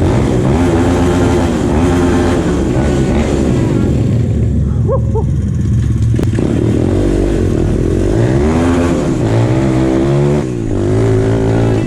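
Pit bike's single-cylinder four-stroke engine revved in repeated blips. The pitch climbs and falls back several times, sits lower and steadier in the middle, then is revved hard again near the end.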